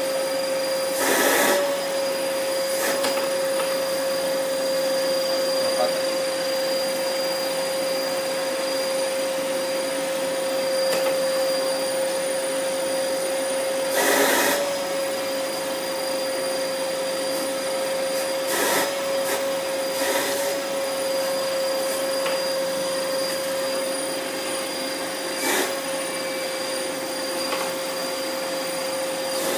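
Vacuum cleaner running steadily with a high motor whine over a rush of air. About five times, at roughly 1, 14, 19, 20 and 26 seconds, there is a brief louder surge of air noise, and the whine's pitch wavers slightly just after.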